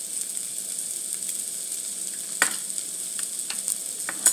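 Food frying in a hot pan with a steady sizzle and fine crackling, with a sharp click about two and a half seconds in and another at the very end.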